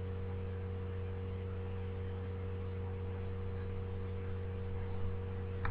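Steady low electrical hum with a faint hiss underneath, with no other sound until a faint click near the end.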